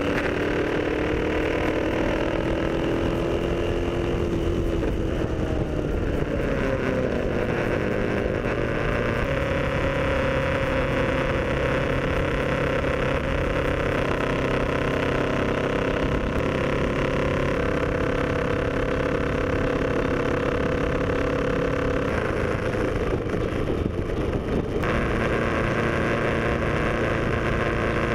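Motorcycle engine running while riding, with road and wind noise. The engine note climbs over the first few seconds, drops about five seconds in, then holds mostly steady at cruising speed.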